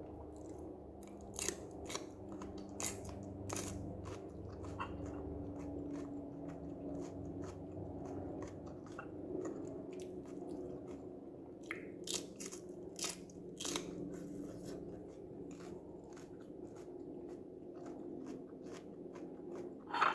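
Raw yellow bell pepper strips bitten and chewed close to the microphone: crisp crunches in clusters, about a second and a half to four seconds in and again around twelve to fourteen seconds in, with a sharp click near the end. A steady low hum runs underneath.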